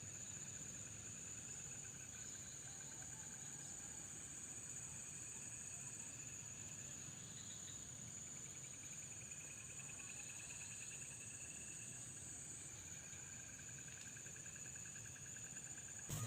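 Night insects, crickets among them, chirring in chorus: a steady high-pitched trill, with softer pulsing trills lower down that fade in and out.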